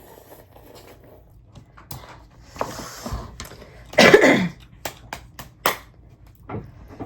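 A person coughing while eating spicy instant ramen, the chili heat catching in the throat, with a few short clicks just after the loudest cough.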